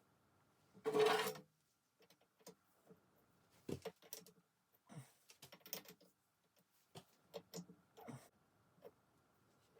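Tools and parts being handled while a lathe is set up: one louder clatter about a second in, then scattered light clicks, taps and knocks.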